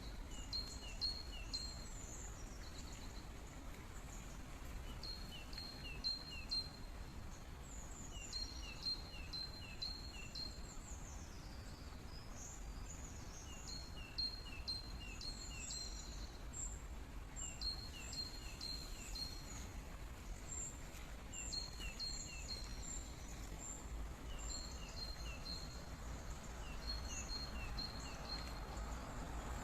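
Small birds chirping: short phrases of three to five quick high notes, repeated every few seconds throughout, over a steady background hiss of flowing water.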